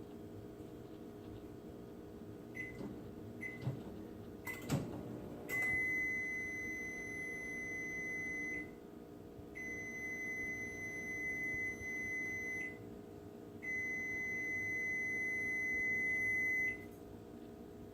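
Microwave oven beeper: a few short high beeps, a sharp knock, then three long, steady, high-pitched beeps of about three seconds each, separated by short pauses.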